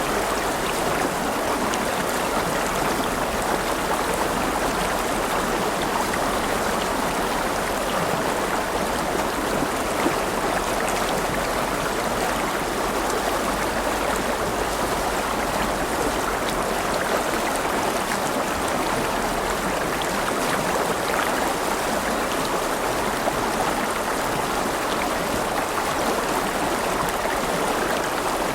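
River water running steadily over rocks, a continuous rushing and babbling with small splashes.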